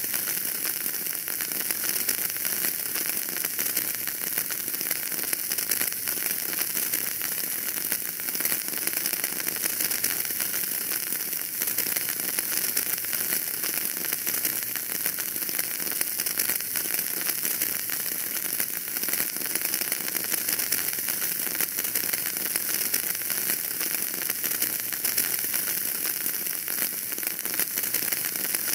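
Wood fire in a fireplace crackling steadily, a dense run of small pops and snaps over a hissing bed of noise.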